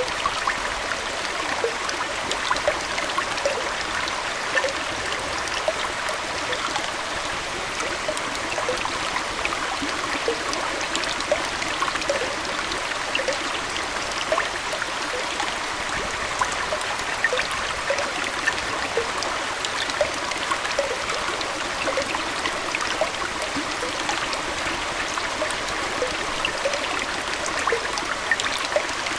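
Aquarium water flowing and trickling steadily, with frequent small plinks running through it.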